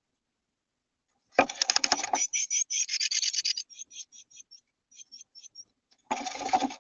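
Small bird in a nest box giving rapid, high, thin call notes, several a second, with loud bursts of scratching and rustling as it moves about among the nest material, about a second and a half in and again near the end.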